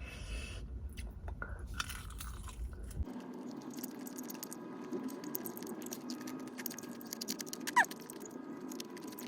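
Close-up chewing of crispy fried chicken: a steady run of fine crackling crunches as the batter is bitten and chewed. About eight seconds in, a brief falling squeak stands out as the loudest moment.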